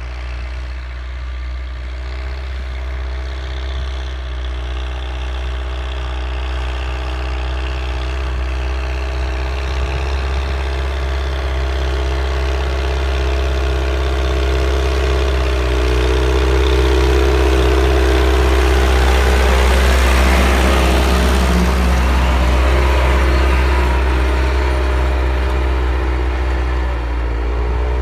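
T-40 tractor with a Mercedes-Benz OM 364 four-cylinder diesel engine running steadily, growing louder to a peak about twenty seconds in, then easing off a little.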